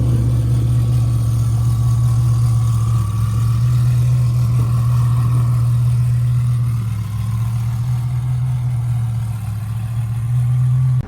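Car engine idling, loud and steady with an even low pulse, easing slightly about two-thirds of the way through.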